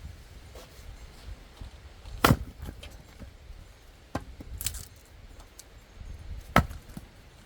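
Sharp knocks or chopping strikes: two loud ones about four seconds apart, a lighter one between them, and a brief rattle just after the lighter one.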